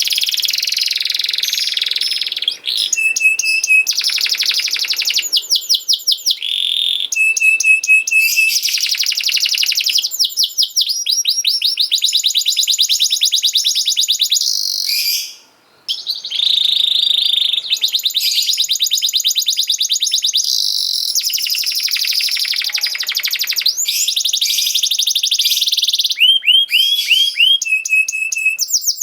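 Domestic canary singing: a long run of fast trills and rolls of rapidly repeated high notes, with a brief break about halfway through.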